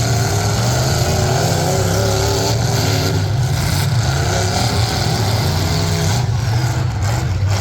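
Demolition derby trucks' engines running and revving, loud and continuous, their pitch rising and falling as they are driven.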